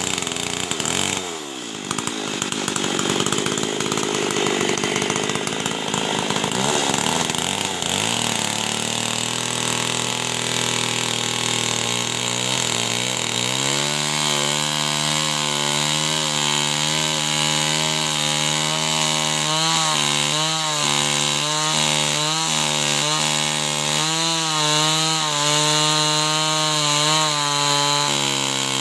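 Two-stroke chainsaw running at high revs while cutting wood, then dropping to a steady idle about halfway through, with short dips in the engine note near the end.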